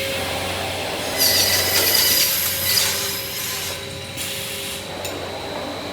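Automatic frame-moulding cutting machine running, its saw spinning with a steady hum. About a second in, a loud hissing cut lasts about a second and a half as the saw goes through soft PS (polystyrene) moulding at low speed.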